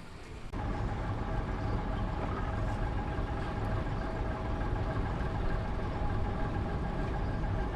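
An engine idling steadily: a low rumble under a constant hum of several steady tones. It starts abruptly about half a second in.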